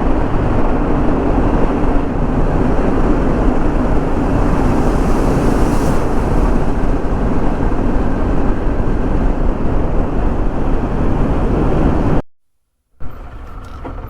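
Wind rushing over the microphone with road noise, as from a motorcycle riding at speed; it stops abruptly about twelve seconds in.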